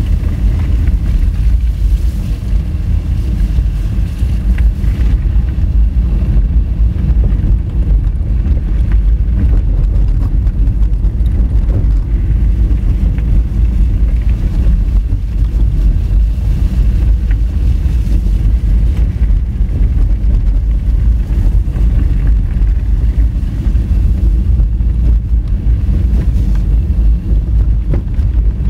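Honda Fit driving on a gravel dirt road: a steady, loud low rumble of tyres and road noise with wind buffeting the microphone, and scattered small clicks.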